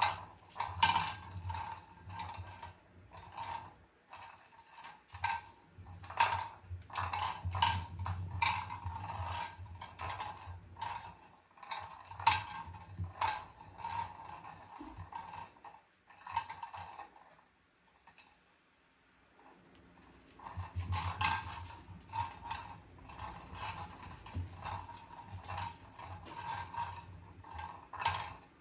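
Small bell on a cat toy jingling and rattling in irregular shakes as the cat bats and pounces at it, with soft thumps, pausing briefly a little past the middle.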